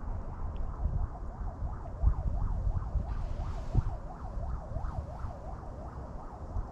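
Wind buffeting the microphone in a steady low rumble, with a fainter warbling tone that swings up and down in pitch about four times a second.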